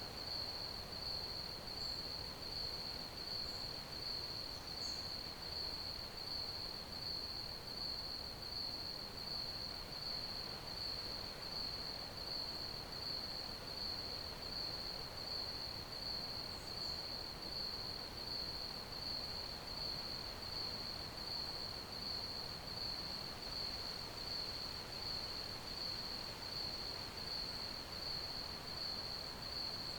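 Crickets chirping in one continuous high trill that swells about once a second, over a faint even hiss.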